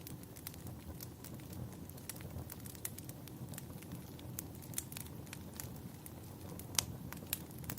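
Wood fire burning in a fireplace: irregular crackles and pops over a steady low rumble, with one sharper pop about seven seconds in.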